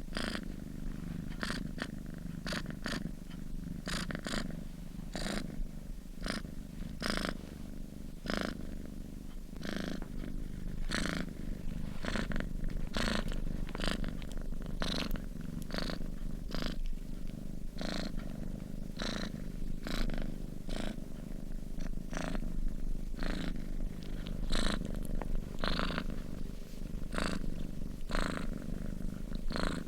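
Domestic cat purring steadily, a continuous low rumble with a soft breathy rasp about once a second.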